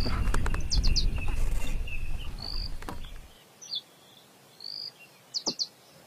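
Bird song: a short whistle followed by three quick high notes, heard twice. A low rumble runs under the first half and cuts off suddenly a little past three seconds in.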